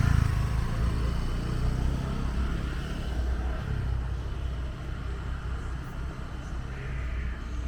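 Street traffic: a motor vehicle's engine rumble, loudest at the start and slowly fading away, over general street noise.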